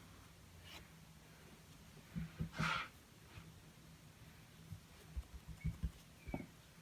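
Paintbrush working a small acrylic canvas: clusters of soft, low taps, and one short scratchy brush stroke about two and a half seconds in, over a faint steady hum.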